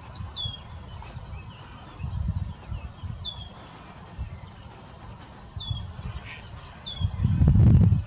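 A small bird's call: a high, thin note sliding sharply down in pitch, given four times a second or more apart. Under it a low rumble, likely wind on the microphone, swells to the loudest sound in the last second.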